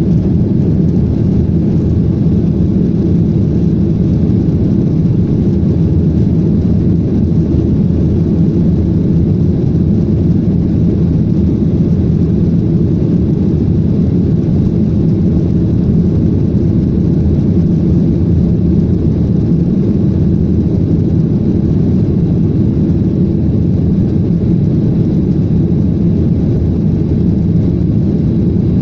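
Jet airliner taking off: a loud, steady rush of engine and airflow noise, strongest low down, with no change in level.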